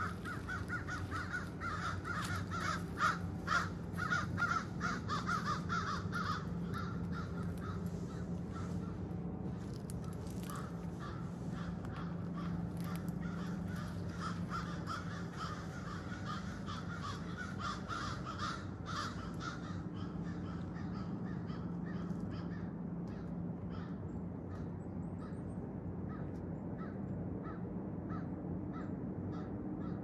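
Bird calls repeating many times over a steady low hum. The calls come thickly at first and grow sparser after about twenty seconds.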